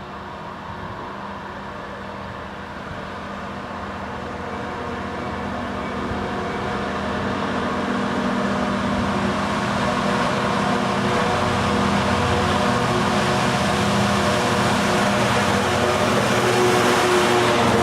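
Class 66 diesel locomotive, with its two-stroke V12 engine running under power, approaching and growing steadily louder throughout.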